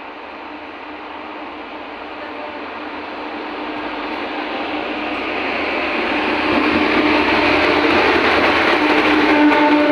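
Indian Railways WAP-7 electric locomotive hauling an express train, approaching at speed, its rumble growing steadily louder. Its horn starts sounding right at the end.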